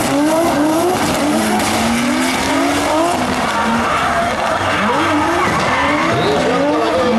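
Drift cars' engines revving hard on the throttle, the pitch climbing again and again in quick rising sweeps, over the hiss and squeal of tyres sliding.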